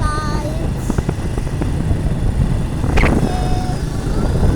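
Motorcycle on the move: a steady low rumble of engine and wind across the microphone, with a short sharp crack and a brief steady tone about three seconds in.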